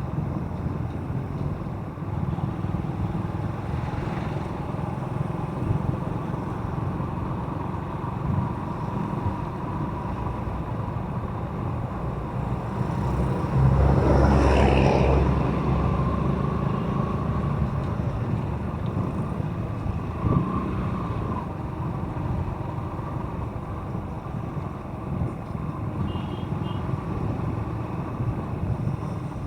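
Motorcycle engine running steadily on the road, with a louder swell of noise lasting about two seconds near the middle.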